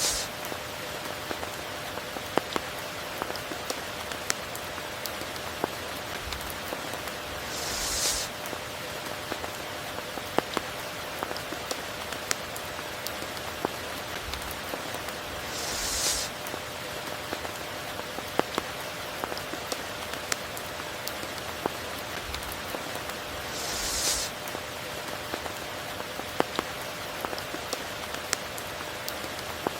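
Steady rain with many scattered close drop ticks. A brief hissing swell recurs about every eight seconds, four times.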